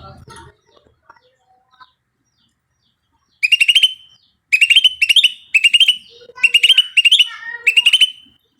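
A bird calling loudly in repeated bursts of rapid, sharp chattering notes, starting about three seconds in and repeating roughly once a second.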